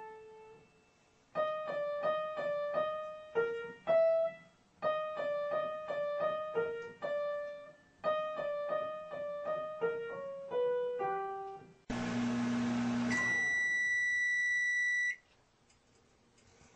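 A simple tune picked out note by note on a piano keyboard, in several short phrases. About twelve seconds in, a loud steady hum starts suddenly and then gives way to one long, high electronic beep of about two seconds: a microwave oven signalling that its heating time is up.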